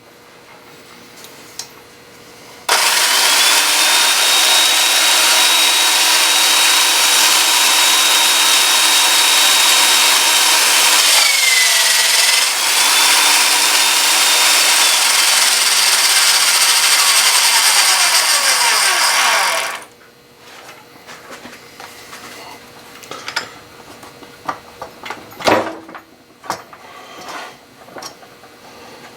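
Electric drill running for about seventeen seconds, drilling into a broken bolt in the engine's oil filter housing. Its high whine climbs as it spins up, sags briefly about halfway as the bit loads up, then winds down when the trigger is released, followed by a few light clicks and knocks of handling.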